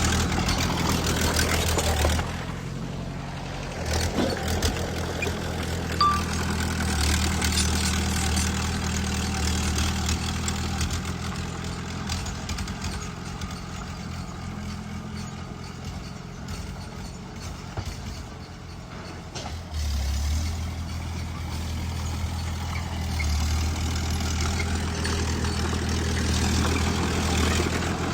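Small bulldozer's diesel engine running steadily, its note rising and falling as it works: louder at the start, quieter through the middle, and picking up again about two-thirds of the way in.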